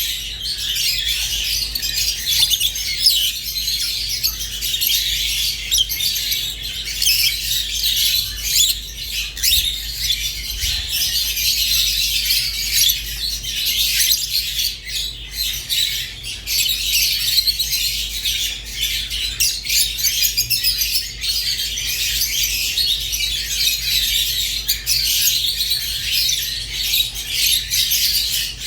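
Rosy-faced and Fischer's lovebirds chattering without a break: dense high-pitched twittering and chirps mixed with squawks. A faint low hum runs underneath.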